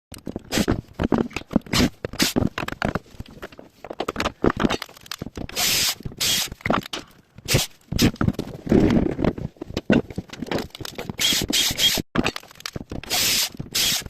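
Irregular knocks, clicks and short scrapes of wood and hardware being handled while a rotating cabinet tray is fitted, with a few brief hissing scrapes along the way.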